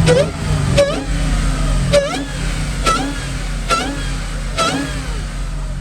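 A modified car engine running loud with a steady low drone, cut by a sharp, crackling blip roughly once a second.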